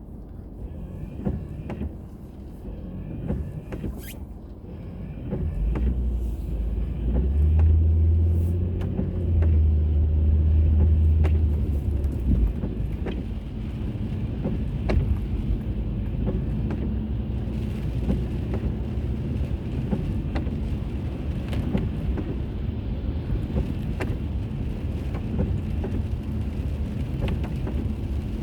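Car driving, heard from inside: steady low road and engine rumble with light ticks and knocks. A deep drone swells much louder from about six seconds in and drops back a little after twelve seconds.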